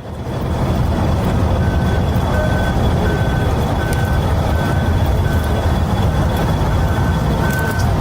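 A loud, steady, deep rumble with a vehicle's reversing alarm beeping over it, starting a little under two seconds in and repeating about one and a half times a second.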